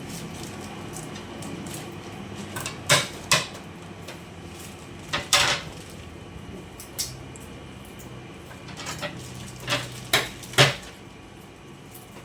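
Kitchen utensils and dishes knocking and clinking during food preparation: a string of sharp, irregularly spaced clinks and knocks over a low steady background.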